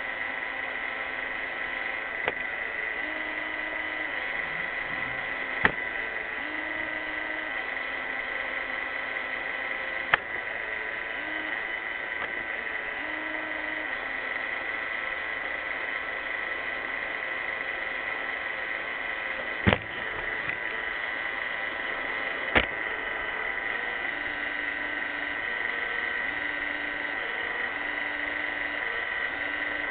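iRobot Roomba 600-series robot vacuum running with a steady small-motor whine, with a lower hum that steps up and down in pitch. Four sharp knocks stand out over it.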